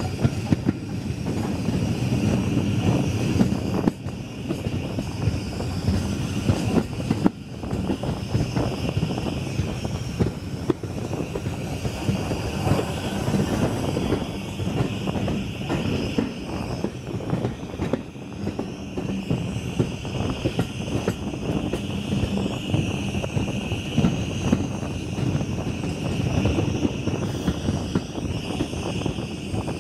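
Steam-hauled passenger train coaches running along the track: a steady rumble and rattle of wheels on the rails with fine clicking, and air rushing past the open carriage window.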